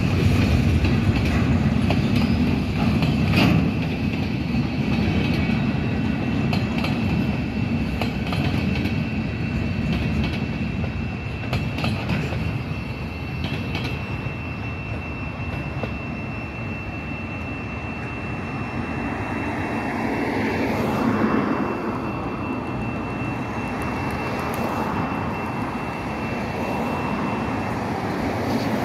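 Tail end of a freight train of covered hopper and lumber flatcars rolling over a level crossing, the steel wheels rumbling and clacking over the rail joints, fading away after about 13 s. A crossing-signal bell rings as a steady high tone throughout and stops about a second before the end as the gates lift, and a road vehicle passes briefly after about 20 s.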